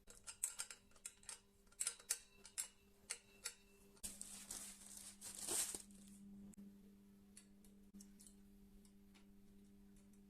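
Small hand-work sounds on bicycle parts: a run of sharp clicks and taps, then a hiss that swells for about two seconds and stops, over a faint steady hum.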